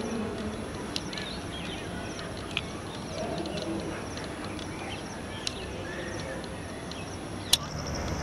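Outdoor ambience with faint, scattered chirps of small birds over a steady background hiss. A few sharp clicks are heard, the loudest one near the end.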